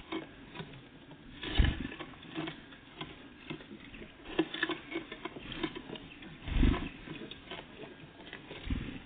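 Small birds, great tits and blue tits, pecking and scrabbling at a feeder close to the microphone: a run of irregular light taps and clicks, with three heavier thumps, about one and a half, six and a half and eight and a half seconds in.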